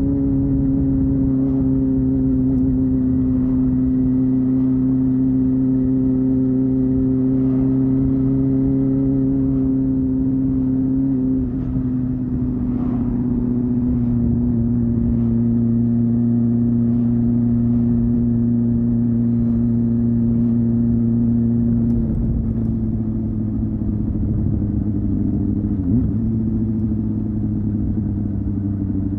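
Honda Hornet 250's inline-four engine and exhaust running at steady, high-pitched revs under way. The note sags slightly a few times, about a third and two-thirds of the way through and again near the end.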